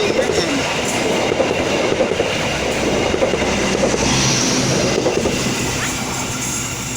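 Passenger train passing close by, its wheels clattering over the rails, loud and steady; the clatter gives way to a steadier hum about four seconds in.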